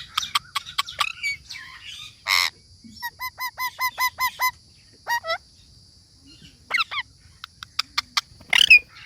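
Pet parrot calling: clicks, a harsh squawk about two seconds in, then a quick run of about eight short identical chirps, a few single calls, and another harsh squawk near the end.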